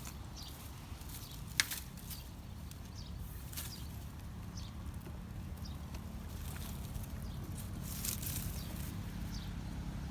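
Outdoor ambience: a steady low rumble with short high chirps recurring every second or so, and one sharp click about a second and a half in.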